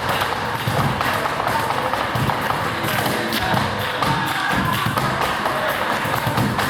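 Cajón slapped by hand in a quick flamenco rhythm, a dense run of deep thuds and sharper taps.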